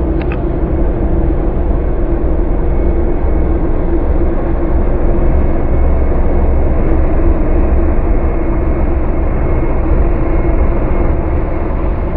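Diesel passenger railcar passing close by, its engine running with a steady hum over a heavy low rumble.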